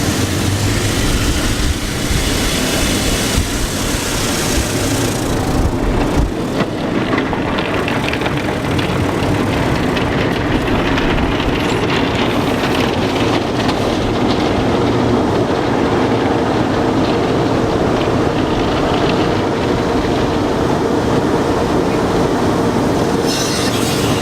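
Automatic car wash machinery running: a steady loud rumbling wash with a high hiss that fades about six seconds in and comes back near the end.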